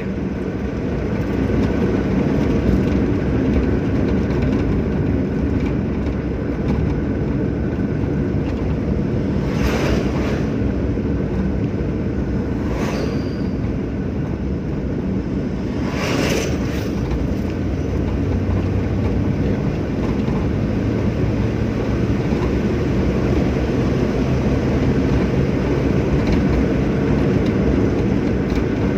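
Steady road and engine rumble of a Hyundai Santro car on the move, heard from inside. Three brief rushing swells pass about ten, thirteen and sixteen seconds in, and a low steady hum grows clearer in the second half.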